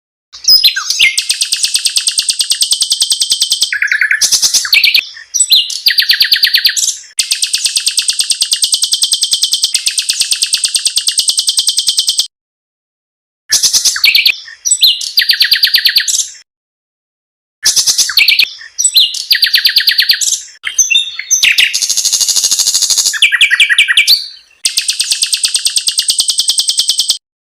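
Small songbirds singing long, fast, rapidly pulsed trills (rolls) and shorter harsh rapid phrases, all high-pitched. The song is spliced together, with abrupt dead-silent gaps between some phrases.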